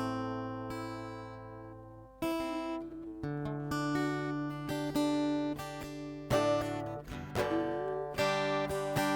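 Acoustic guitar strumming slow chords and letting them ring. The first chord fades out over about two seconds before fresh strums follow, roughly one every second or so.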